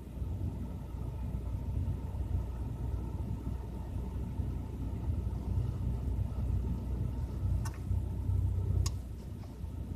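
Lada Granta's 21126 1.6-litre sixteen-valve four-cylinder engine running steadily with a low rumble after a winter cold start. Two light clicks come near the end.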